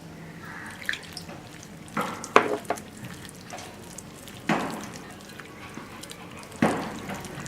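Flour, chilli powder and salt being mixed with water into a thin batter in a bowl, with about six sharp wet taps and clinks of the spoon against the bowl.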